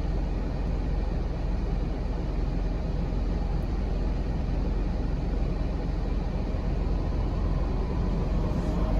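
A steady low outdoor rumble with an even hiss above it, unchanging throughout, like wind or distant traffic on the microphone.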